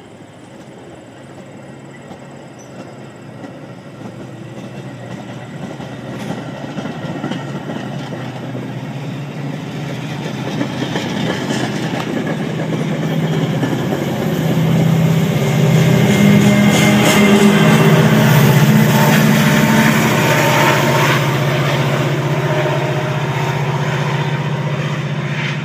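Diesel commuter train passing: bilevel passenger cars rolling by with wheels clattering on the rails, while the engine of Metra 409, an MP36PH-3S locomotive pushing the train, grows steadily louder as it nears and is loudest a little past the middle.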